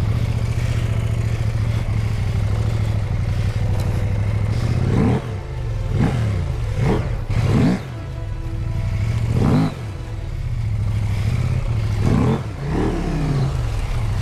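Husqvarna Norden 901 parallel-twin engine running at a steady low tick-over, blipped with several short bursts of throttle that rise and fall in pitch.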